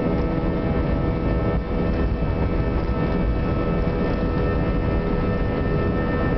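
Airbus A320 jet engines heard from inside the cabin during takeoff or climb: a steady rushing noise carrying several steady whining tones.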